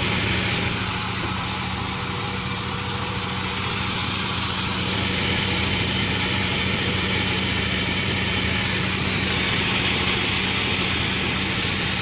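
Panda36 sawmill running steadily: a constant engine drone under a hissing high whine from the saw. The high part of the sound shifts from about a second in until about five seconds in, then returns.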